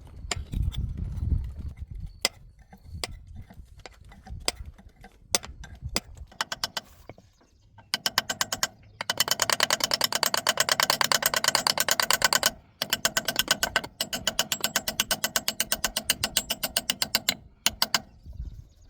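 Ratchet wrench being worked on a machine: scattered single tool knocks and clicks, then two long runs of fast, even ratchet clicking, the second run starting after a short break about halfway through.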